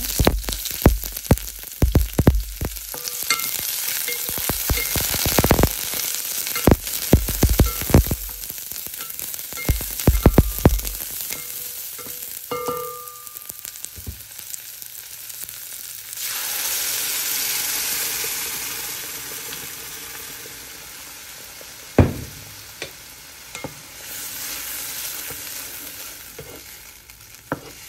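Sliced onion sizzling in hot oil in a pot, with many sharp knocks during the first ten seconds or so. About 16 s in, a louder, steadier sizzle starts as the blended pasilla chile sauce goes into the hot oil, then fades as the sauce is stirred with a wooden spoon; one sharp knock about 22 s in.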